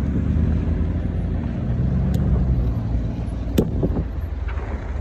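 SUV engine running low and steady as the vehicles crawl over a dirt trail, with two sharp knocks about two and three and a half seconds in.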